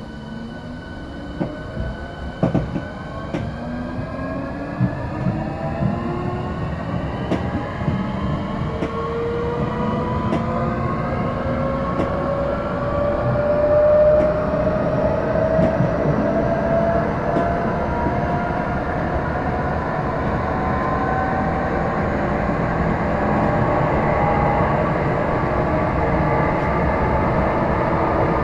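Electric train pulling away from a station, heard from inside the carriage: a motor whine rises steadily in pitch as it gathers speed, over a rumble of wheels on the track that grows louder. A few sharp clicks from the wheels sound in the first few seconds.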